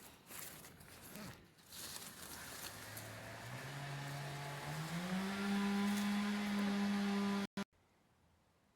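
A steady machine-like hum that climbs in pitch in a few steps over about two seconds, holds, then cuts off abruptly, after some rustling at the start.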